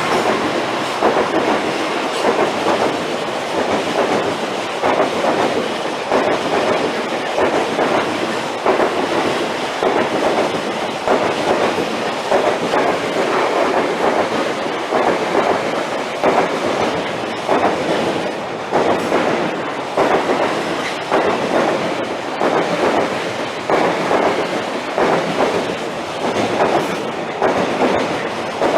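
A long train passing close by, its wheels clattering over the rails in a steady run of repeated beats.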